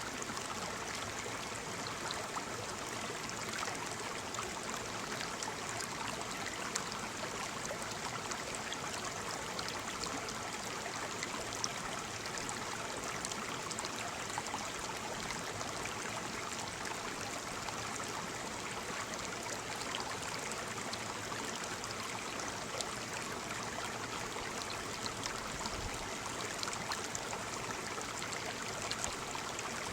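Waterfall: steady rush of falling water with fine splashing.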